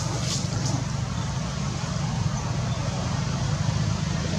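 Steady low rumble and noise, like road traffic.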